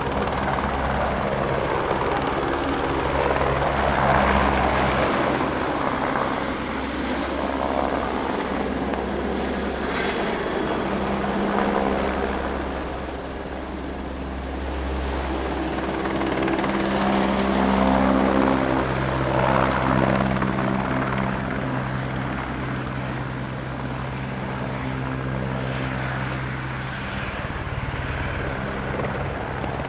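Aircraft engine droning steadily: low humming tones under a rushing noise that swells and eases slightly.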